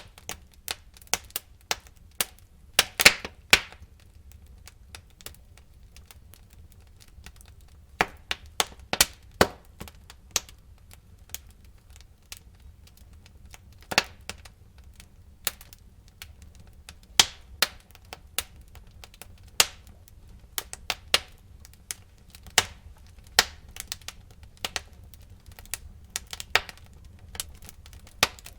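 Burning wood in a fireplace crackling, with irregular sharp pops and snaps and a few louder cracks over a faint low rumble of the fire.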